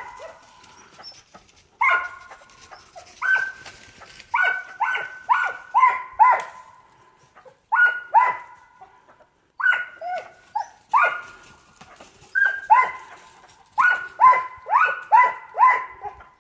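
An animal barking again and again, in short bursts of one to four barks with brief pauses between.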